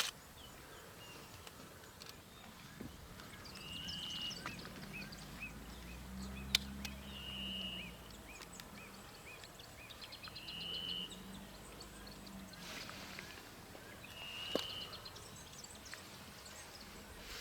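Birds calling: a short held note repeated about every three to four seconds among scattered chirps, over a faint low hum, with a couple of sharp clicks.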